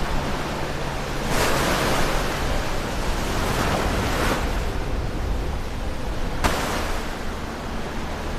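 Ocean waves breaking close to the shore: a wave crashes and washes in about a second in, then a second, sharper break near the end, over a steady low surf rumble.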